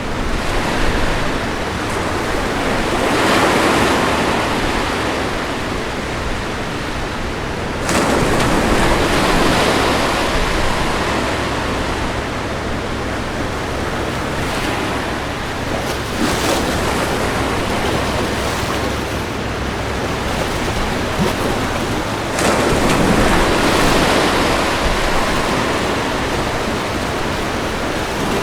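Ocean waves breaking on a beach: a constant wash of surf with several surges, one arriving sharply about eight seconds in and others swelling and fading roughly every six to eight seconds.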